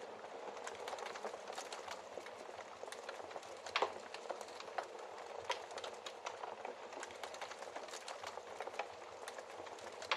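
Wood fire crackling in a fireplace: a steady hiss with frequent small pops and snaps, and one louder pop a little under four seconds in.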